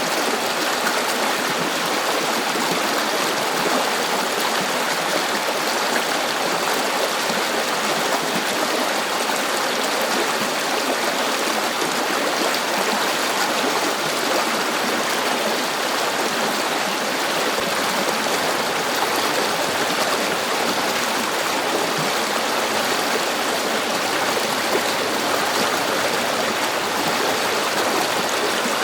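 River water flowing steadily, a constant rushing and babbling of a stream.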